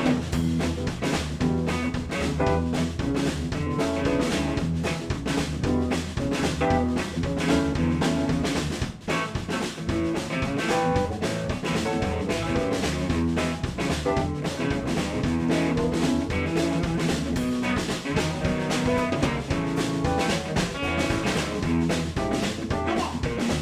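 Live electric blues band playing an instrumental passage with no vocals: drum kit keeping a steady beat under bass, guitar and keys, with a brief drop in the sound about nine seconds in.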